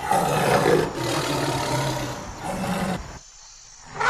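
An animal roaring, in a few long, rough calls over about three seconds, then a short pause. A higher-pitched call that rises and falls starts just at the end.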